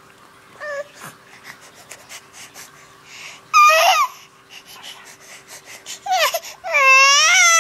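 Baby crying in short wavering wails, with a brief one about half a second in, another about three and a half seconds in, and the loudest, longest wail near the end; quick soft clicks fill the gaps between cries.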